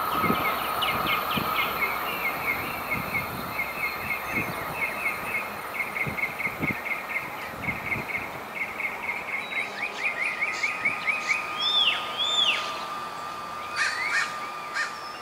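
Birds chirping in long runs of quick repeated short notes, with two rising-and-falling whistled notes about twelve seconds in. Beneath them a train's low rumble fades away over the first few seconds.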